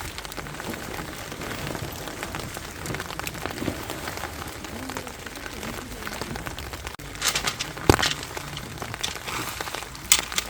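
Rain pattering steadily on tent fabric, a dense hiss of small drop ticks. A cluster of sharper, louder clicks comes about three-quarters of the way through, and another near the end.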